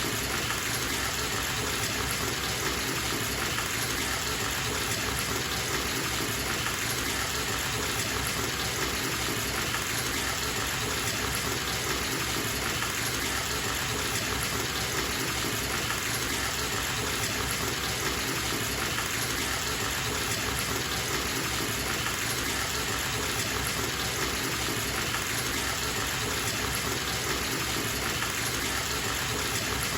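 Bathtub filling from its running tap: a steady, even gush of water falling into the tub, unchanging throughout.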